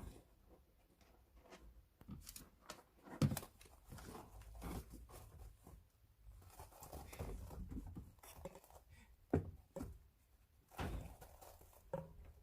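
Kittens playing: scattered light knocks, thuds and scratchy rustling, with a sharp knock about three seconds in and another near nine and a half seconds.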